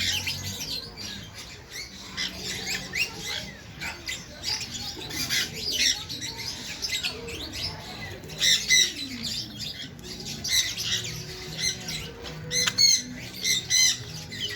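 A flock of birds chirping and squawking, with many short calls overlapping and a few louder bursts of harsh squawks.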